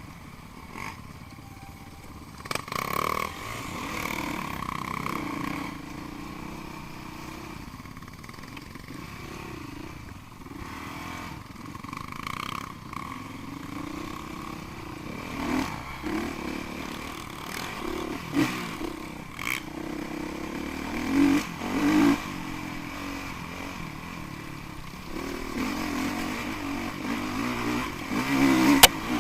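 Enduro dirt bike engine revving up and down in repeated swells, with a few sharp clattering knocks.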